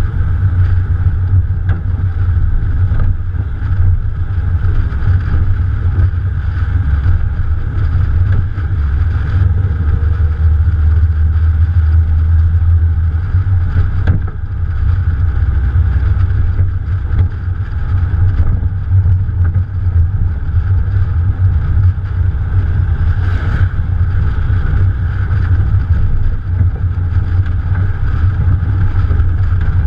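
Morgan Plus 4 driving along with its Ford 2.0-litre engine running steadily. Heavy wind rumble on the bonnet-mounted microphone.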